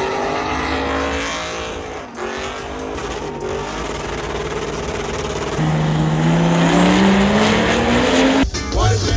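A truck engine revving hard, its pitch rising in long climbs with a short drop about two seconds in. It cuts off suddenly near the end.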